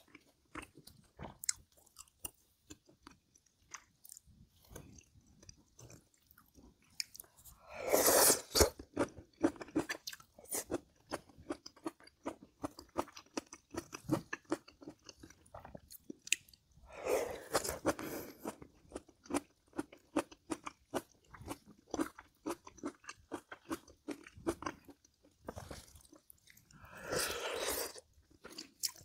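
A person chewing and crunching food close to the microphone, with dense small clicks of chewing throughout. Three louder bursts, each a second or two long, come about nine seconds apart.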